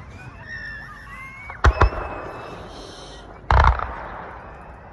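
Aerial fireworks going off: gliding whistles, then two sharp bangs a little over a second and a half in and a heavier boom about three and a half seconds in, with crackling between.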